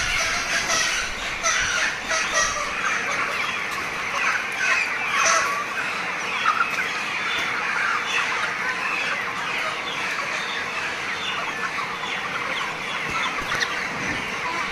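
A flock of broiler chickens chirping and clucking all at once, a dense unbroken chorus of many overlapping short calls.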